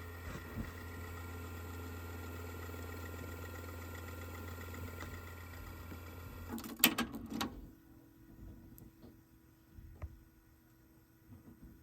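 Yamaha K-40 cassette deck's tape transport whirring steadily, then stopping with a loud mechanical clunk about seven seconds in. A faint steady hum and light clicks follow.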